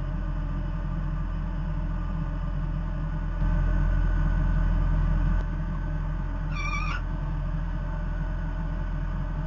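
A steady low hum that grows louder for about two seconds from around three and a half seconds in, and a short wavering high-pitched call near seven seconds.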